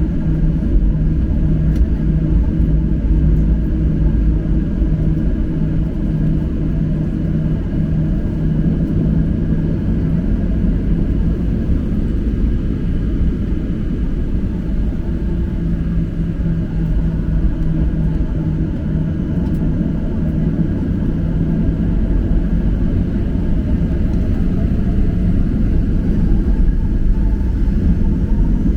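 Steady rumble of a Boeing 737-800's CFM56-7B jet engines and airflow heard inside the passenger cabin, with a few steady whining tones over the low roar. Near the end one whine begins to rise in pitch as the engines spool up.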